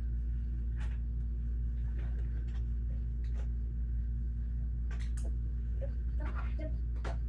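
Scattered small clicks and taps of plastic Lego pieces being handled, over a steady low hum.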